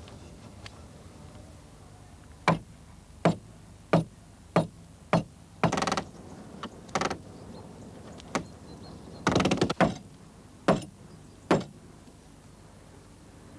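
Hammering in a wooden boat restoration: a series of sharp blows, about one every two-thirds of a second, with a quick flurry of strikes a little past the middle.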